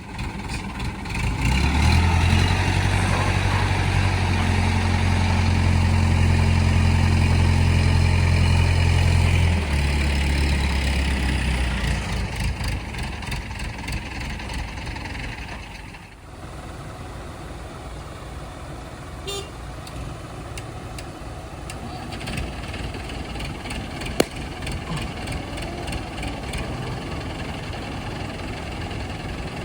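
Heavy diesel vehicle engine running. A strong low steady drone holds for the first ten seconds or so, then drops away, leaving a lower, steadier engine noise. One sharp click comes near the end.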